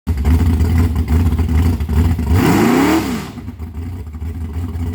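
Chevy 350 small-block V8 in a hot-rodded Blazer running with a loud low rumble, revving up briefly about two and a half seconds in and dropping back, then running quieter.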